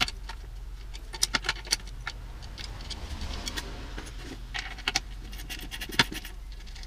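Wrench and loosened lug screws clinking against a tom's shell and hoops during disassembly. Irregular sharp metallic clicks and taps come in small clusters, the drum shell carrying and amplifying them.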